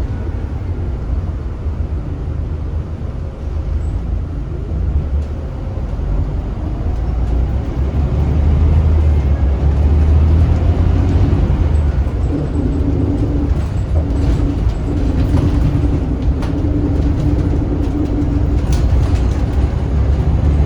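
Scania L94UB bus's rear-mounted Scania DC9 9-litre six-cylinder turbo diesel running under way, growing louder about eight seconds in. A steady whine sounds over the engine for several seconds in the second half, with a few light rattles.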